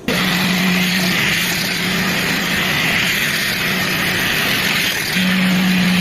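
Carpet-cleaning machine running: a loud, steady motor hum with a strong rushing hiss that cuts in suddenly at the start.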